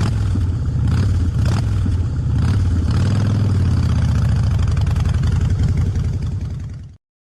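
Motorcycle engine running steadily, picking up a little in the middle, then cutting off suddenly near the end.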